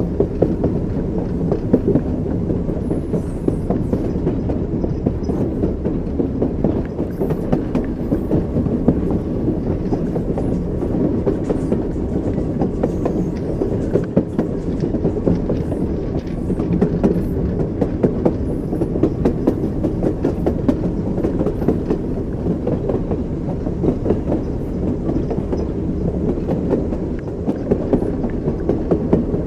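Train wheels clattering over rail joints while the train runs at steady speed, with a continuous low rumble of the rolling stock.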